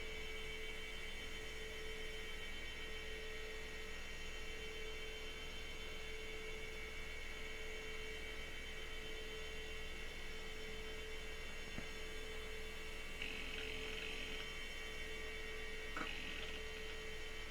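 Steady electrical hum of a running computer, with a thin, constant high whine over it. A short hiss comes about 13 seconds in, and a single click about 16 seconds in.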